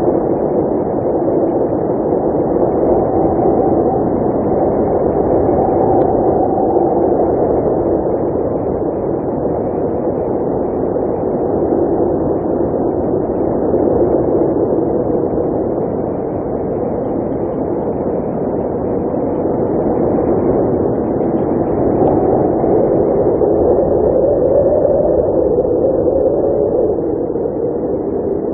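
Blizzard wind blowing steadily, a low rushing that swells and eases every few seconds.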